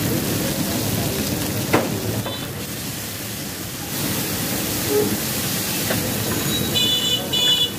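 Chicken tikka pieces sizzling in oil on a large flat tawa griddle while a metal spatula stirs and scrapes them, with a sharp clack of the spatula about two seconds in. A few short high-pitched squeaks come near the end.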